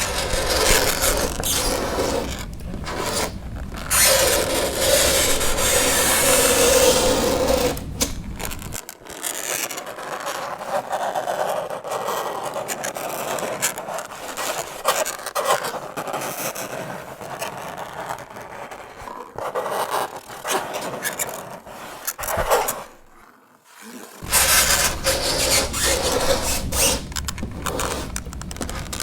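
Fingernails dragged across a chalkboard in repeated scraping strokes, with a drawn-out squeal about four seconds in and a brief pause a little before the end.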